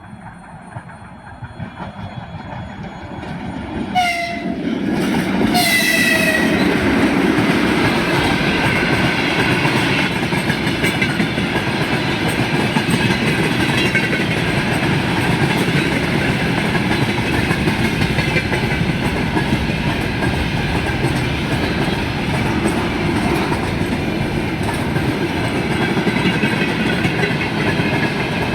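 2ES6 electric locomotive approaching and sounding its horn in two short blasts about a second and a half apart, the pitch dropping slightly as it passes. A loaded freight train then rolls by with a steady rumble and wheel clatter.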